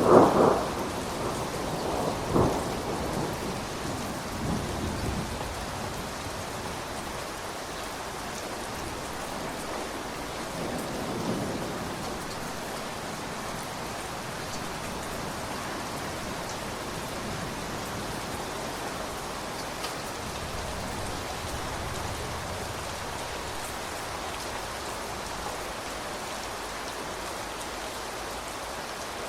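Steady rain with thunder: a loud clap at the start, a second strike about two seconds in, and a rumble that dies away over the next few seconds, then a fainter roll of thunder about ten seconds in before the rain carries on evenly.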